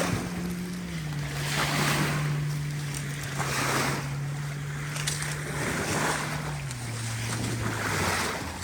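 Small waves washing on the shore about every two seconds, with a boat engine droning steadily behind them, its pitch dropping in a few steps.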